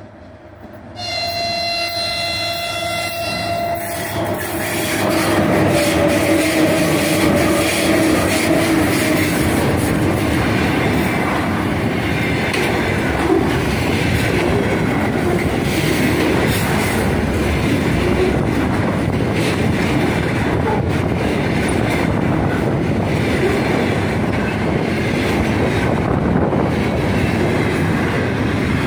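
3ES5K "Ermak" electric locomotive sounds its horn, a chord held about three seconds, as it nears. Then the locomotive and its long train of container wagons pass close by, with the steady rumble and clickety-clack of wheels on the rails.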